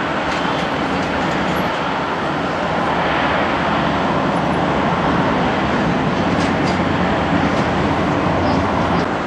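Boeing 737-300 with CFM56-3 turbofan engines, a steady rushing jet roar that grows slowly louder.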